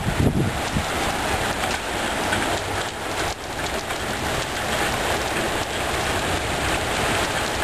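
Heavy thunderstorm rain falling steadily, a dense even hiss, with wind briefly buffeting the microphone in the first second.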